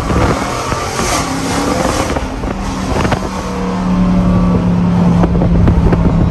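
Dodge Durango's loud exhaust, which the owner thinks is straight-piped, running as the SUV is driven. It grows louder over the second half, with a steady drone.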